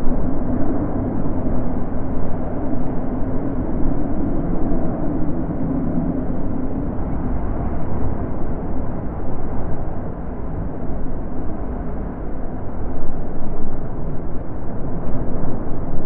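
Steady, loud wind rumble, deep and muffled, swelling and easing in gusts.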